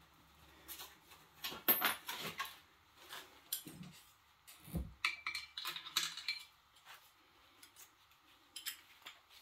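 Metal hand tools and engine parts clinking and clattering irregularly while a seized air-cooled Honda engine is taken apart, with a duller thump about five seconds in.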